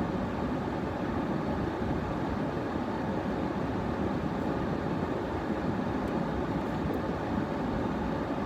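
Steady road and engine noise inside a car's cabin while it drives on snowy roads.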